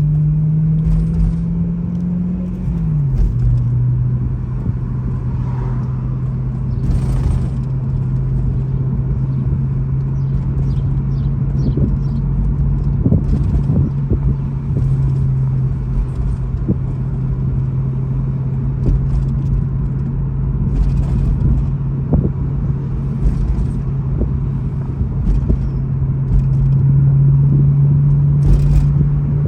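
2012 BMW E93 M3's V8 engine running steadily with road rumble while driving slowly over bumps, the engine note dropping in pitch about three seconds in. Over this come repeated short metallic rattles and clicks at irregular intervals from underneath the car, a fault that shows up over expansion joints and road imperfections.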